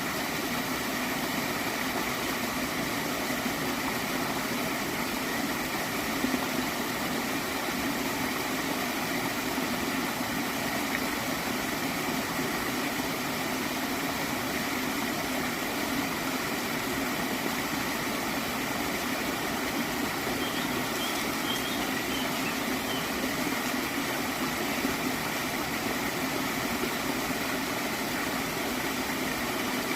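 Gently flowing stream of water gurgling steadily.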